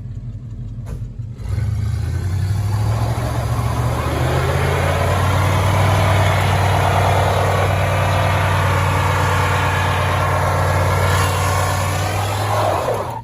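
Truck engine revved hard and held at high revs for about eleven seconds, stepping up about a second and a half in and building further a few seconds later, then let off just before the end.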